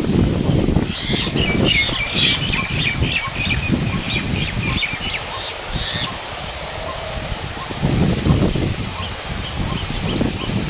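A bird singing a quick run of short chirps for about five seconds, over low rumbling noise on the microphone.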